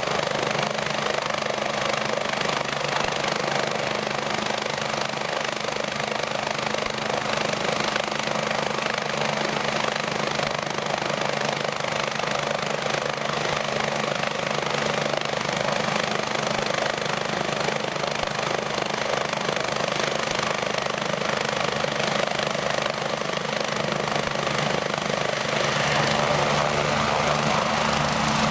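BK117 twin-turbine helicopter running steadily: turbine and rotor noise with a constant low hum, growing a little louder near the end.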